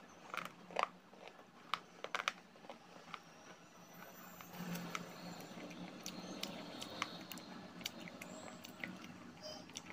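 Close-up chewing of crunchy dry clay (mitti): a few sharp crunches in the first two and a half seconds, then quieter chewing with scattered crackles.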